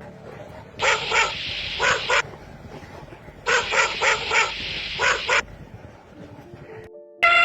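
Dog barking in two bouts of several quick barks each, with a short pause between the bouts.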